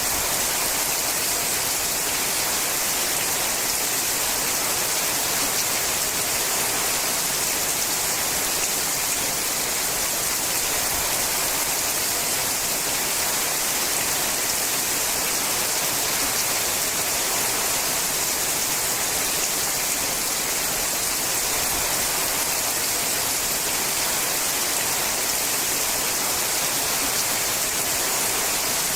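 Steady rain falling on a sheet-metal roof, an even hiss with no separate drops or gusts standing out.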